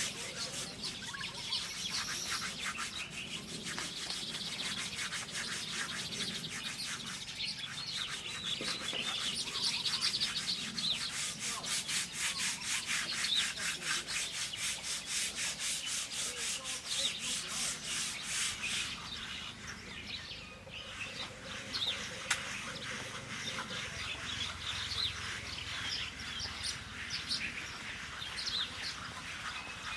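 Small birds chirping in short, repeated calls over a steady, rapidly pulsing rasping noise that eases about two-thirds of the way through.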